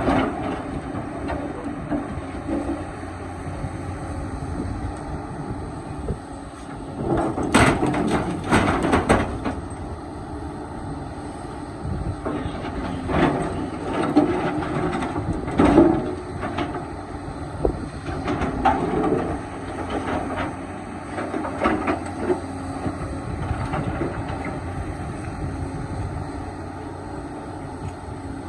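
Hydraulic excavator's diesel engine running under load, with repeated clanks and scrapes as the bucket works against rock, heaviest about a quarter of the way in.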